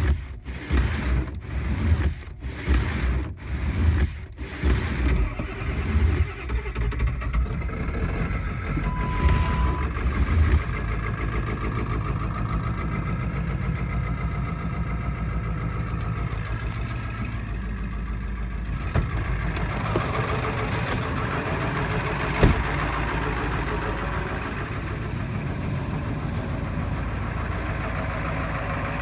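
1999 Ford 7.3 L Power Stroke turbo-diesel V8 cold-starting after three days sitting at 28°F. It pulses unevenly for the first five seconds or so as it cranks and catches, then settles into a steady diesel idle. A short beep comes about nine seconds in, and a sharp click about 22 seconds in.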